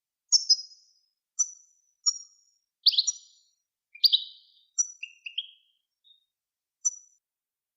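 A songbird singing a run of short separate high chirps and brief buzzy trills with small gaps between them, a clean recording of the kind played to teach song to young cage birds.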